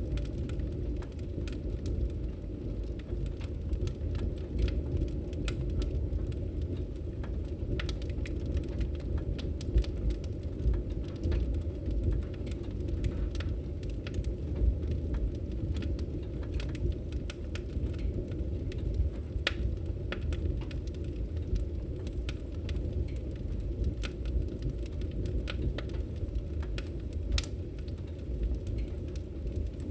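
Wood fire crackling in a fireplace: a steady low rumble of flames with frequent irregular pops and snaps.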